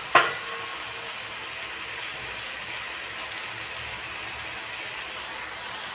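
Onion-tomato masala sizzling steadily in oil in a pan, with one sharp tap just after the start.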